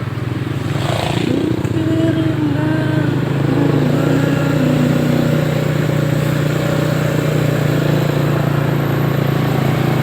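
Motorcycle engine running steadily as it is ridden, with a man's voice singing a slow tune over it; a brief rush of noise about a second in.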